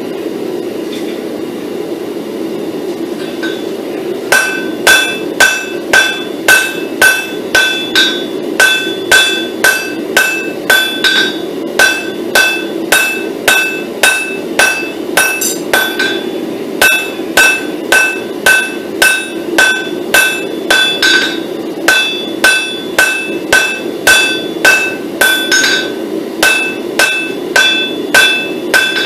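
Blacksmith's hammer striking a hot pattern-welded steel billet on an anvil, about two blows a second with short pauses, each blow leaving a clear metallic ring. The billet is being drawn out. A steady low rush runs underneath, and the hammering starts about four seconds in.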